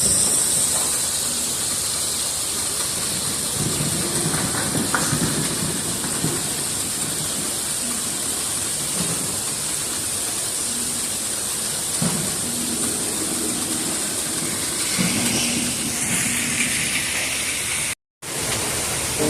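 Sweet potato washing machine running: a steady hiss of spraying water with scattered low knocks. The sound cuts out for an instant near the end.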